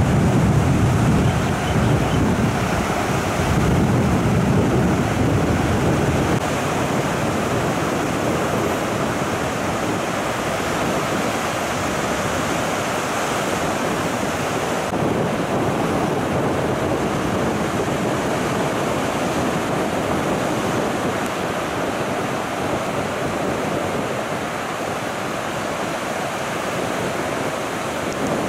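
Sea surf breaking on a beach in strong onshore wind, a steady wash of water noise, with wind buffeting the microphone and rumbling most heavily in the first few seconds.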